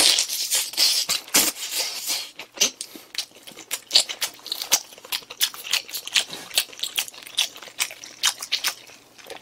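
Close-miked mouth sounds of biting into and chewing spicy pig's trotters with melted cheese: an irregular run of wet smacks and clicks, starting with a louder bite.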